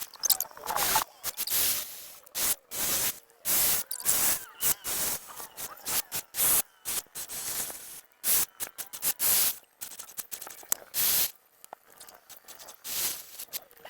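Short bursts of spray hissing, about one or two a second, each starting and stopping abruptly.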